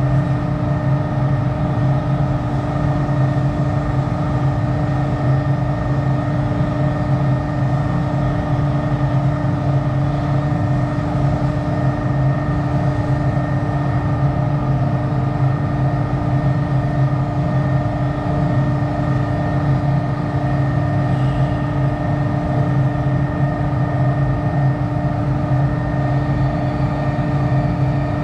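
A machine motor humming steadily at one even pitch, with no change over the whole stretch.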